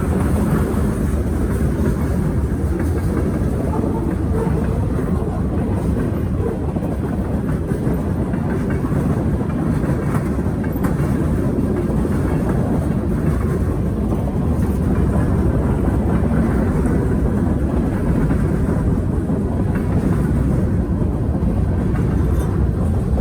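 Norfolk Southern train rolling steadily past, a continuous low rumble of wheels on rail.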